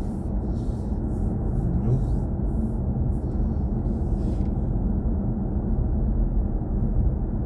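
Steady low road and tyre rumble inside the cabin of a BMW i4 M50 electric car while driving, with no engine note.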